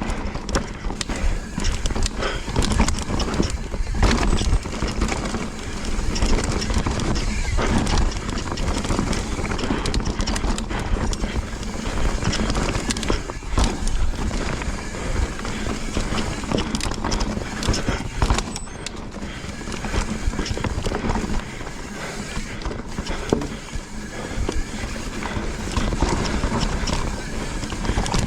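Mountain bike descending a rough dirt trail at speed: tyres rolling and skidding over dirt, roots and rocks while the bike's chain and frame rattle with each bump, with steady wind rumble on the helmet camera's microphone.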